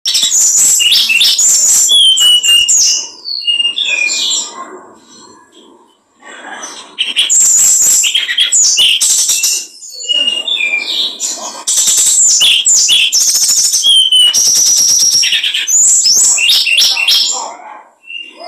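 A small songbird singing loudly in long, dense phrases of rapid high trills and chattering, mixed with clear whistled notes. There is a quieter stretch about four to six seconds in.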